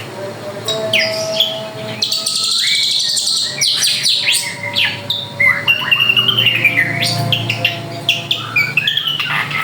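Drongo singing a fast, varied song: sharp chirps, short rising and falling whistles, and a buzzy rapid trill.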